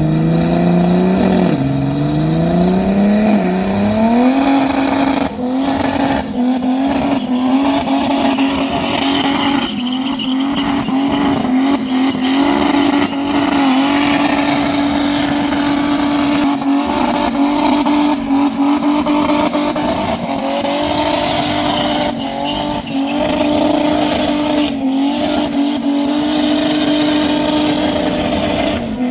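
Muscle car's engine revved up over the first few seconds, then held at steady high revs during a burnout, with a few brief dips in pitch.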